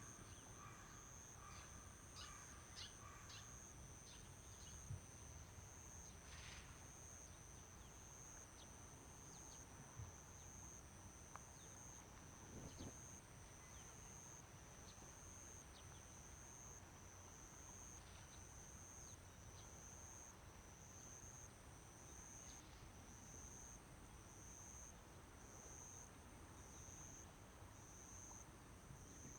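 Faint insects chirping in a steady high pulse, about one a second, with a few short bird chirps near the start.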